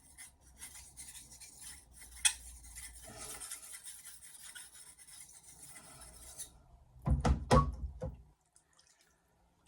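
Steel blade of a Japanese kitchen knife rubbed back and forth on a wet whetstone in quick strokes, a rasping scrape with a sharp click about two seconds in. Around seven seconds in the scraping stops and a few loud knocks follow, then it goes quiet.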